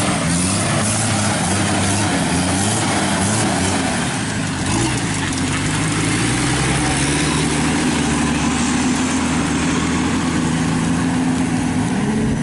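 A motor vehicle engine running loudly. Its speed wavers up and down at first, then settles, with a short rise near the end.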